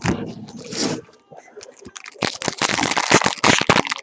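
Foil trading-card pack wrapper being torn open and crinkled in the hands. It is a short rustle at first, then dense rapid crackling from about two seconds in.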